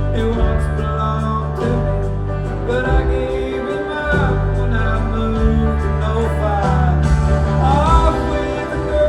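A country band playing live, with bass notes changing every second or two and a melody line that slides between notes.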